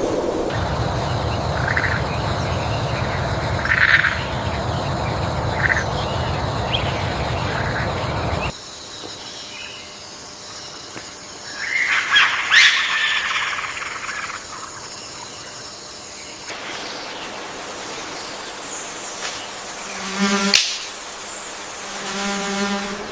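Birds calling over a steady outdoor background: short chirps at first, then a louder call in the middle and a harsh, buzzy call about three quarters of the way through, repeated near the end. The background changes abruptly twice.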